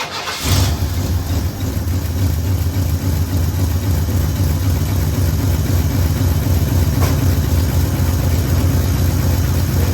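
1973 Ford F100 engine, with a single glasspack exhaust, cranks and catches about half a second in, then settles into a steady idle. It is running after a tune-up and an ignition timing adjustment.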